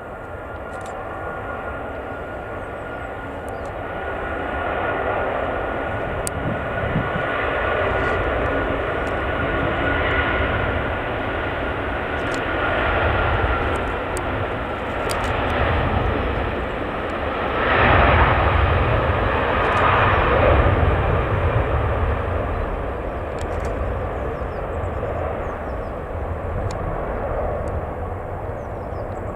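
Airbus A330-300's Rolls-Royce Trent 700 jet engines at takeoff thrust as the airliner climbs out. The steady roar with a high whine over it grows to its loudest about 18 seconds in, then slowly fades.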